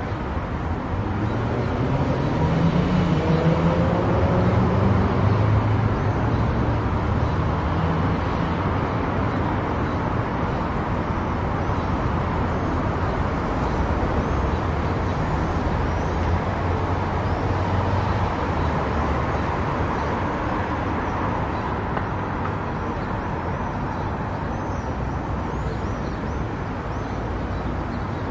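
Car driving on a highway: steady road and engine noise, with a louder swell and a rising tone a few seconds in.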